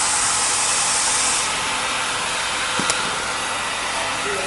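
Hair dryer blowing steadily, heating dried contact glue to activate it for patching an inflatable. The hiss loses some of its high edge about a second and a half in, and a single click comes near the middle.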